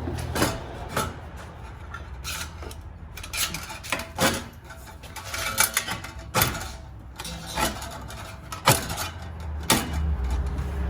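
Irregular metal clanks and knocks as exhaust pipe sections are handled and lined up against each other, a dozen or so sharp strikes over a low background hum.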